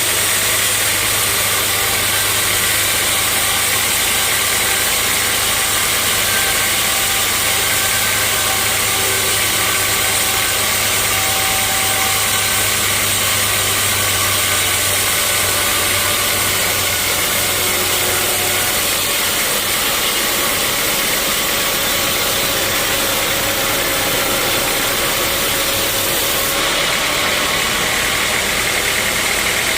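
Sawmill machinery running: a steady, loud mechanical noise with a low hum that fades out about two-thirds of the way through.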